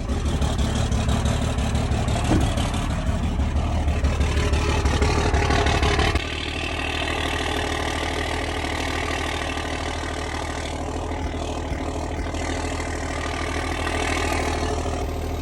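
12-valve Cummins inline-six diesel running just after a cold start in freezing weather, louder for about the first six seconds and then dropping abruptly to a quieter, steady idle.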